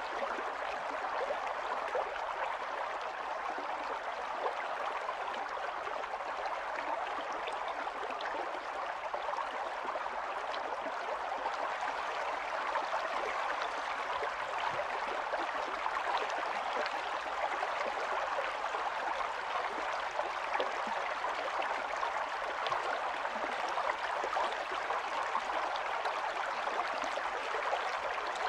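Small stream of running water, flowing and babbling steadily.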